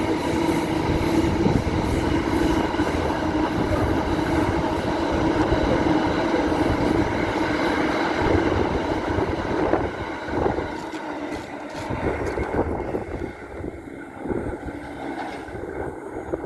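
Train running past, loud and steady with a held ringing tone over the first half; it grows quieter and patchier after about ten seconds.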